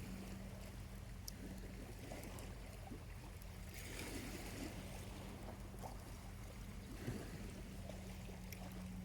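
Small waves lapping and washing on a beach, swelling gently a couple of times, with a few small pops from a campfire's burning charcoal. A steady low hum runs underneath.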